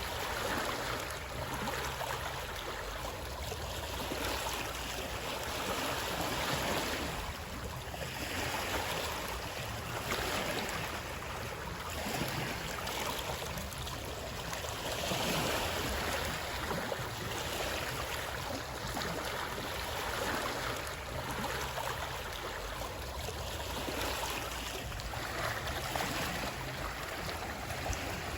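Continuous running water, a steady rush that swells and eases every few seconds.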